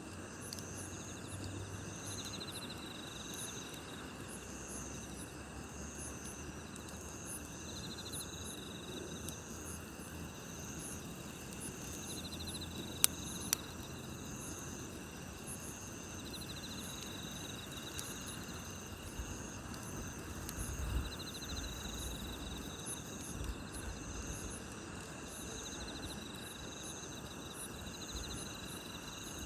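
A chorus of night grass insects chirping steadily, one trill swelling and fading every few seconds over the continuous shrill singing. Underneath, a campfire crackles softly, with two sharp pops about 13 seconds in.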